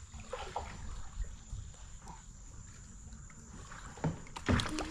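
Kayak drifting on a river: light water sounds and a low wind rumble, with a couple of sharp knocks near the end.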